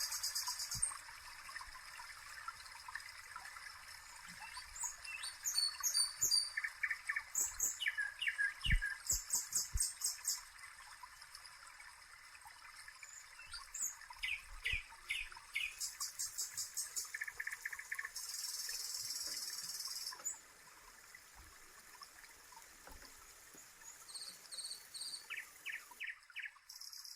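Small birds chirping in quick repeated trills, with gaps between the phrases, over a steady faint hiss like running water.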